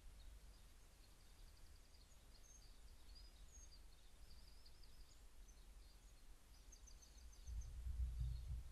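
Faint, distant birdsong: scattered high chirps and a quick trill of repeated notes over a low steady hum, with a low rumble that swells near the end.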